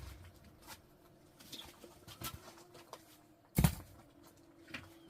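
Split firewood being handled and stacked: scattered light knocks of wood, with one loud knock about three and a half seconds in.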